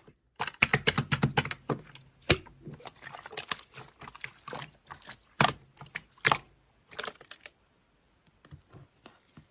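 Slime being squished and poked by hand, a quick irregular run of sticky clicks and pops that thins out and stops about three quarters of the way through.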